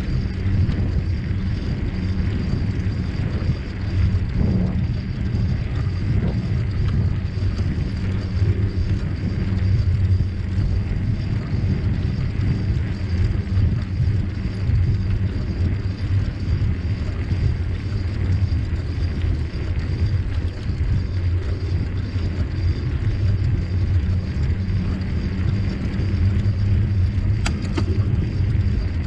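Steady low rumble of a bicycle in motion: tyre and wind noise on the microphone while riding, with a couple of brief clicks near the end.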